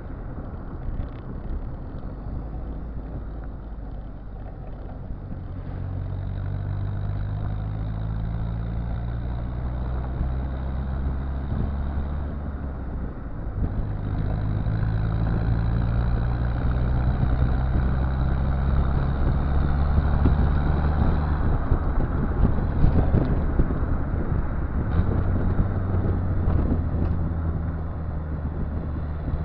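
Exhaust note of a Citroën Visa 17 RD fitted with an XUD7TE four-cylinder turbodiesel, running under way. The low engine note climbs slowly, then steps to a new pitch several times, and it gets louder through the middle.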